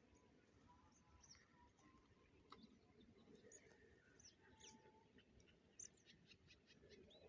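Faint, scattered chirps and short high calls of small birds over near silence, with a couple of faint clicks.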